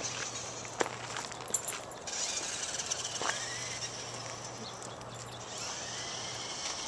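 A small radio-controlled four-wheel-drive monster truck running: a steady high whir from its electric motor and tyres, with a sharp click about a second in and a brief rising whine around three seconds in.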